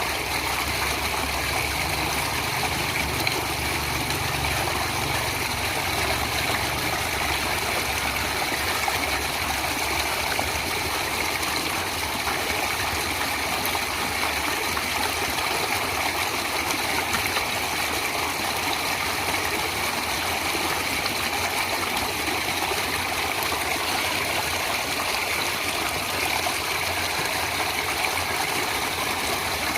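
Stream water flowing steadily with a continuous rushing and trickling sound. A low rumble underneath fades out within the first several seconds.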